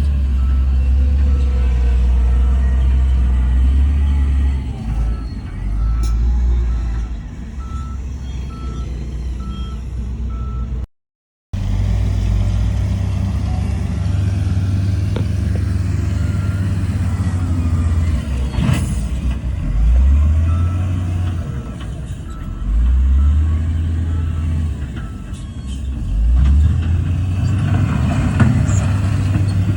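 Heavy diesel earthmoving machinery running, its engine revving up several times in the second half, with a reversing alarm beeping steadily through much of it. A brief dropout to silence about eleven seconds in.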